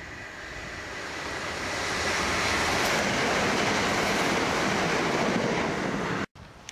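Southern Class 377 electric multiple unit passing at speed: wheel-on-rail noise and rushing air build as it approaches, stay loud and steady as it goes by, then cut off suddenly near the end.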